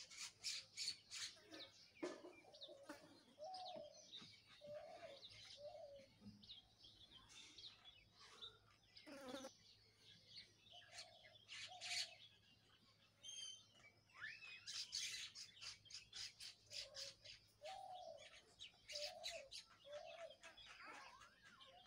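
Faint birds chirping: many short, high chirps in quick runs, with a few lower, short notes in between.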